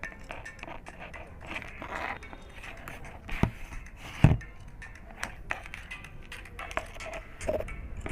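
Small handling clicks and scrapes on a work surface, with two sharper knocks a little before and after the middle.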